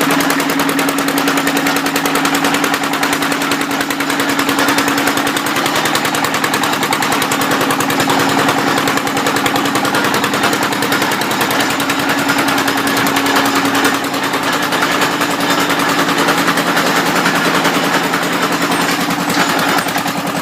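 Engine-driven drilling machine running steadily, with a fast, even pulsing beat and a steady hum.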